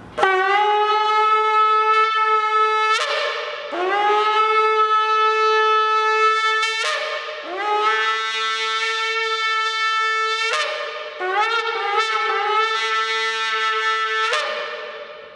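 Oryx-horn shofar blown in a series of long blasts, each scooping up into a steady, bright note and some ending with a brief upward crack, with a run of short broken notes about three-quarters of the way through.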